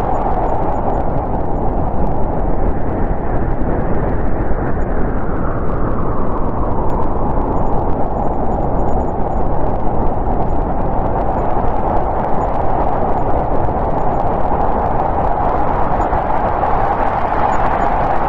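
Winter storm wind blowing steadily and loudly, its whooshing pitch rising a little in the middle and easing back near the end.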